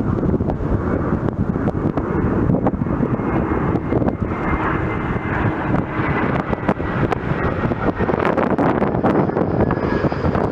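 Jet airliner engines running steadily, a broad rumble with a faint high whine over it.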